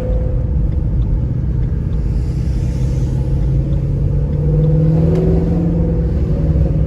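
Car engine running while driving, with road rumble; the engine note strengthens about four and a half seconds in.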